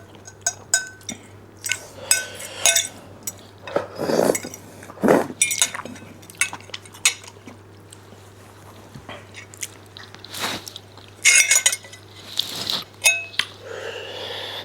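Eating utensils clinking and tapping against bowls and dishes many times at irregular intervals, each clink ringing briefly, with a few short noisy bursts in between.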